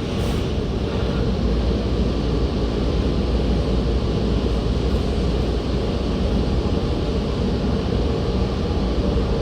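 Automatic car wash machinery running: a steady rushing noise with a heavy low rumble.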